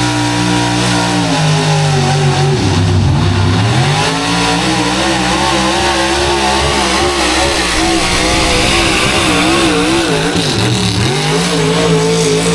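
Gas-engined pulling truck running at full throttle while pulling the sled, the revs dropping, climbing back and wavering up and down as the tyres spin: the power isn't getting to the ground.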